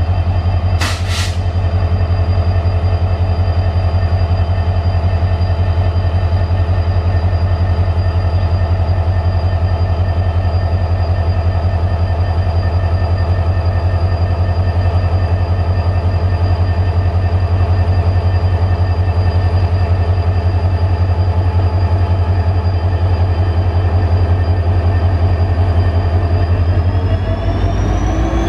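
Freight train hauling fully loaded LPG tank wagons, running with a steady low drone made of many steady tones. Near the end the tones rise in pitch.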